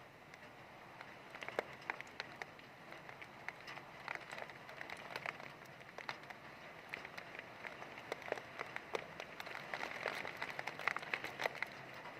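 Heavy rain falling: a steady hiss with many sharp, irregular drop hits close by, growing a little louder and denser in the second half.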